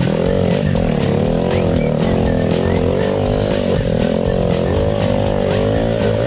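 Enduro dirt bike engine running under load on a trail, its pitch rising and falling with the throttle.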